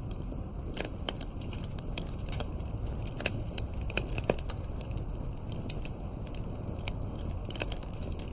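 Campfire burning: wood crackling and popping with many sharp irregular snaps over a steady low rumble of the flames, one louder pop a little past the middle.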